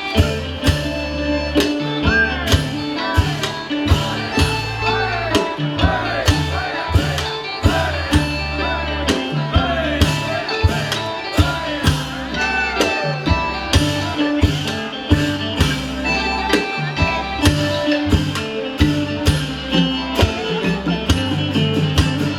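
Live Isan pong lang folk ensemble playing an upbeat piece: a steady drum beat and low bass line under a melody that glides up and down in pitch.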